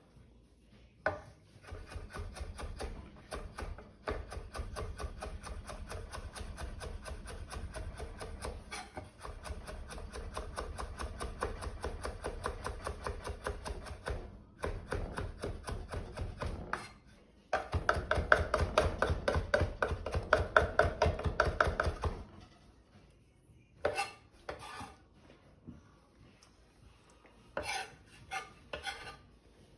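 Kitchen knife rapidly chopping fresh cilantro on a cutting board: a long run of quick, even strokes with two brief pauses, loudest near the end of the chopping. Then a few scattered knocks.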